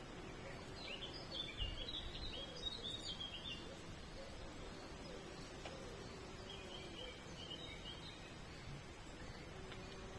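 Faint songbird chirping: a quick run of short high chirps about a second in, then a shorter run past halfway, over steady background hiss and a faint low hum.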